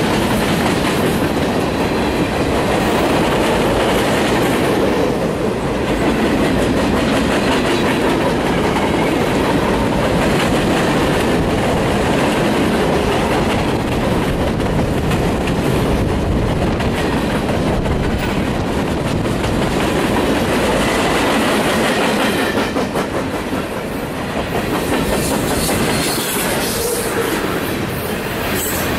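CN freight train cars (flatcar, boxcars and tank cars) rolling past: a steady rumble of steel wheels on the rails with clickety-clack over the rail joints.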